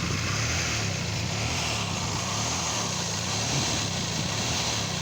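Mazda MX-3's 1.8-litre V6 idling steadily, its exhaust coming out through a muffler with a big hole in it. The engine has a vacuum leak that the owner has not yet found.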